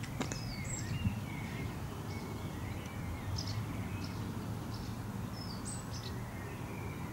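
Birds chirping over a steady low background rumble, with the same short bird phrase coming twice, about five seconds apart.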